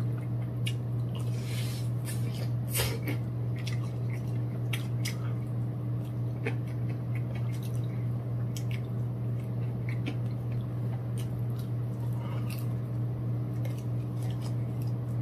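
Close-miked eating of fried chicken wings: chewing with wet, smacking mouth sounds and irregular short clicks as the meat is pulled off the bone. A steady low hum runs underneath.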